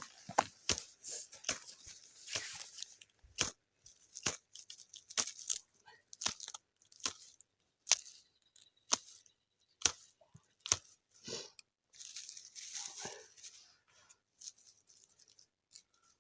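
Ferrocerium fire-steel rod being struck over and over with its scraper, a short sharp scrape every half second to second, with some longer hissing scrapes, as it throws sparks onto dry grass tinder that does not catch.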